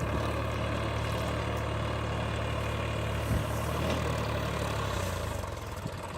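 Tractor's diesel engine running steadily with a low drone, easing off slightly near the end, with one short knock about halfway through.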